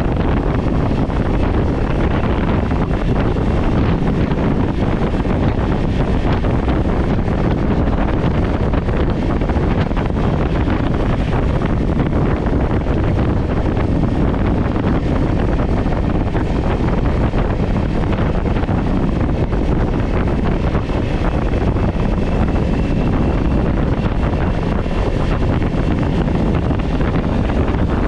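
Steady wind rushing over the microphone of a GoPro on a moving Kawasaki Ninja 400 motorcycle, with the bike's engine running underneath.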